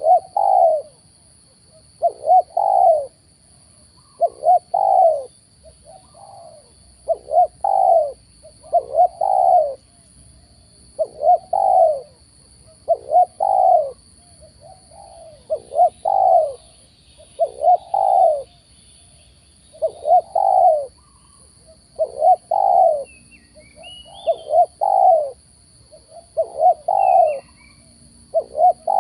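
Spotted doves (tekukur) cooing over and over, one cooing phrase after another every second or two. A few faint high chirps come in near the end.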